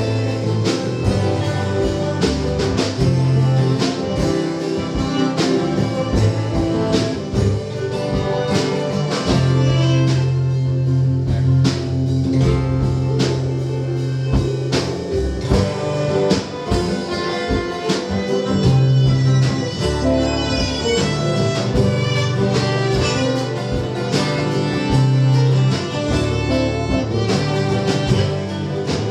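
A live band plays an instrumental break in a country song: guitar and fiddle over bass and a steady drum beat.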